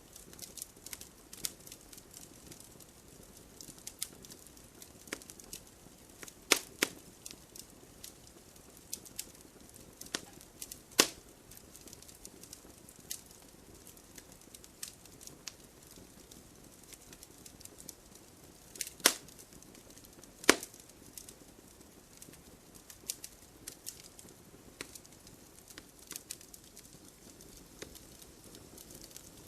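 Wood fire burning in an open fireplace, crackling with irregular sharp snaps over a soft low rustle of flame. A few louder pops come about 6 and 11 seconds in, and two more around 19 and 20 seconds.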